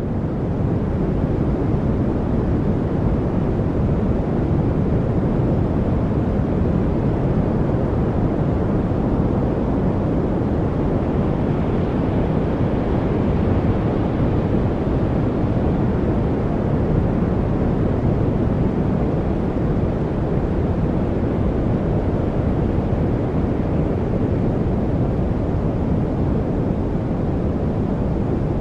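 Steady, deep rushing noise of a focus noise track, fuller in the low end than hiss, with no distinct events; it finishes fading in during the first second and then holds level.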